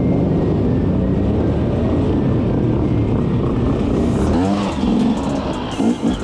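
Off-road motorbike and quad engines running, with one engine revved up and back down about four seconds in and again briefly near the end.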